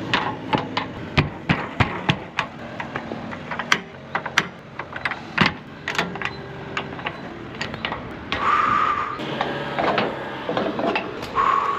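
Irregular clicks, taps and knocks, as of small objects being handled and set down in a small room, with a short steady tone twice in the second half.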